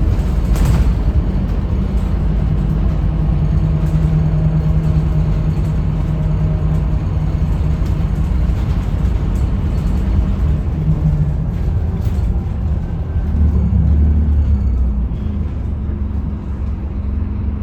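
Scania K310UB bus's diesel engine running, with road noise: a steady low rumble and engine tone. The low rumble swells about three-quarters of the way through.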